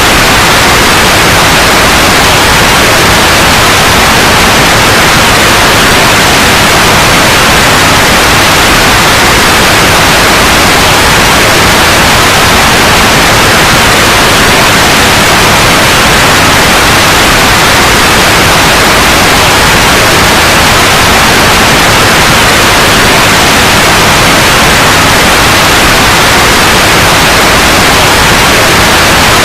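Steady, loud white noise: an even, unchanging hiss with nothing else in it.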